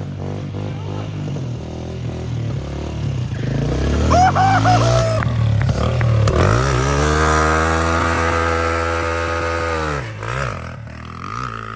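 Dirt bike engine revving hard: the revs climb about six seconds in, are held high and steady for several seconds, then drop away and pick up again near the end. The high revs and the rubber smell remarked on just after point to a burnout, the rear tyre spinning against the ground.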